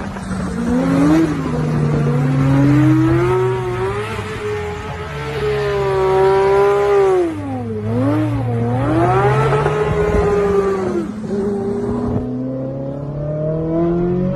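Sports car engine revving hard, its pitch rising and falling again and again, with a deep drop and climb back about eight seconds in.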